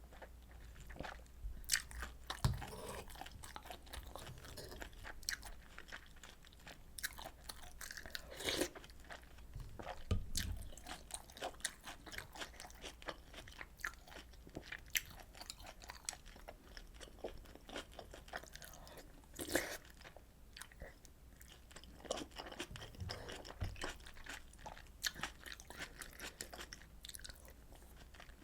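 A person chewing and biting food close to the microphone: irregular small crunches and wet mouth clicks throughout.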